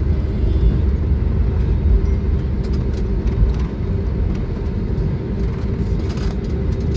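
Cabin noise inside an Airbus A320neo with CFM LEAP-1A engines: a loud, steady low rumble with a constant engine hum, easing slightly about four seconds in.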